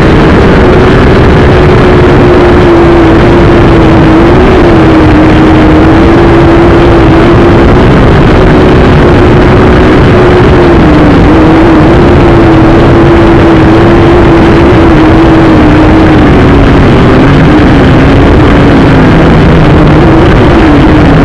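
Syma X5C quadcopter's small brushed motors and propellers running, very loud: a steady buzz with a whine that drifts slightly up and down in pitch.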